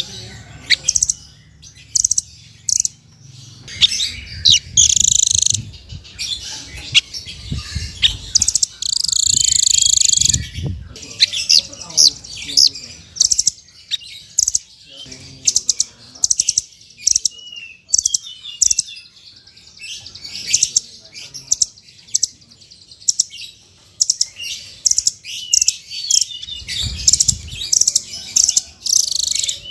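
Songbird calls from a masteran bird-song training recording: rapid, high-pitched chirps and trills, broken by a few longer buzzing notes.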